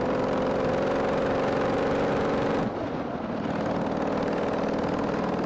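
Harley-Davidson Sportster 883's air-cooled V-twin engine running steadily under way. About halfway through, the engine note dips briefly, then picks up again.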